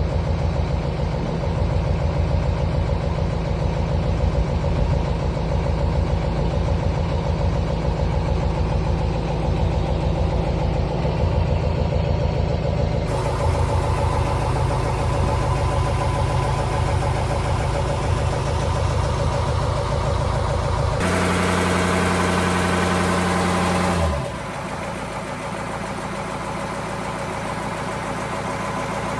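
Boat's inboard engine running steadily, heard up close through the open engine hatch. Its tone shifts abruptly a few times, with a steadier, more tonal stretch about 21 to 24 seconds in, and it is quieter after that.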